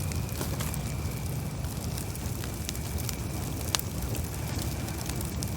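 Campfire crackling, with scattered small pops and one sharper pop about four seconds in, over a steady low rumble.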